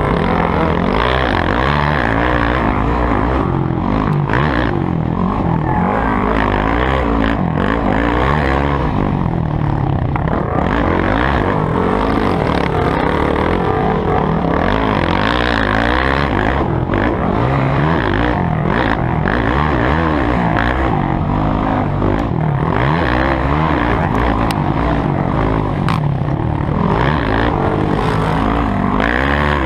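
Motocross bike engines revving up and down without a break, their pitch rising and falling over and across each other as the bikes ride the track.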